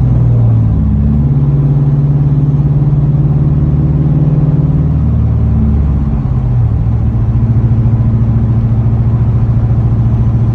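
2004 Ford Mustang GT's 4.6-litre V8 running through a straight-piped exhaust at steady revs; the exhaust note drops to a lower pitch about six seconds in and holds there.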